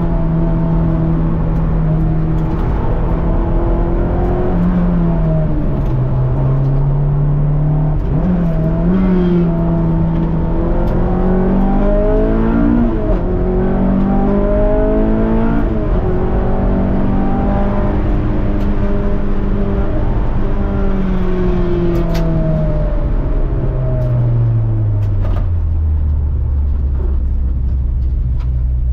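Honda S2000's four-cylinder engine heard inside the cabin, its pitch rising and falling as the car is driven hard through bends. Near the end the note drops away and settles to a steady low idle as the car slows almost to a stop.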